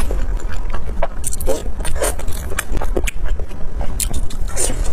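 Close-miked eating sounds: a person biting and chewing soft food, with irregular wet smacks and clicks of the mouth, over a steady low rumble.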